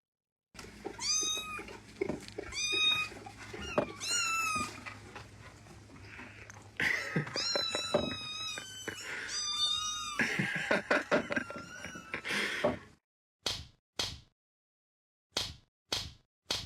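A cat meowing over and over, a string of clear half-second meows with a few knocks between them, then short scattered noises near the end.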